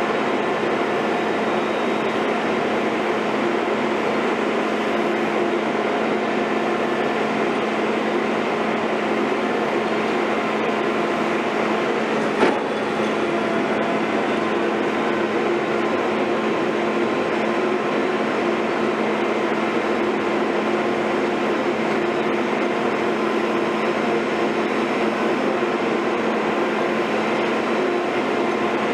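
Heavy construction machinery's diesel engine running steadily, with a single sharp knock about twelve seconds in.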